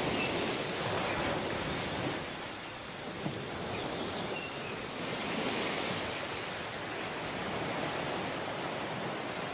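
Rushing water: a steady hiss that swells and eases slowly every few seconds, with one brief tick about three seconds in.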